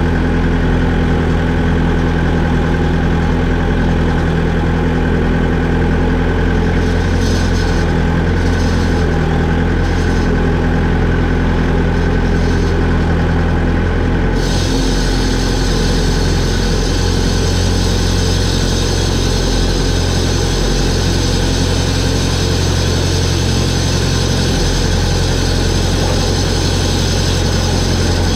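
Vehicle engine idling steadily, with a brighter hiss joining about halfway through.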